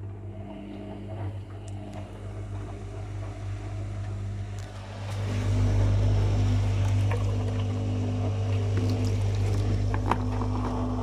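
Whirlpool FL 5065 washing machine draining: a steady, deep hum from the drain pump with water rushing through. It gets louder and fuller about five seconds in, with a few light clicks near the end.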